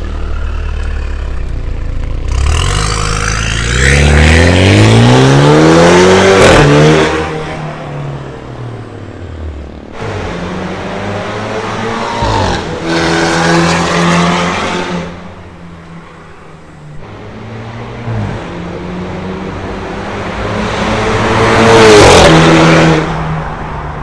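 BMW F10 turbo's engine revving through a full stainless-steel exhaust with custom downpipe and valved exhaust: three rises in pitch and loudness, a long climb a few seconds in, another midway and a sharp one near the end, dropping back to a steady drone between.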